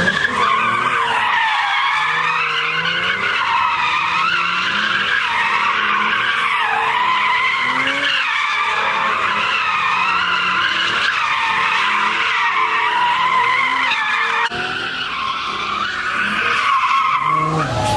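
Car tyres squealing continuously as a car does donuts or drifts, the squeal wavering in pitch, under an engine revving up and down. The level dips slightly about three-quarters of the way through.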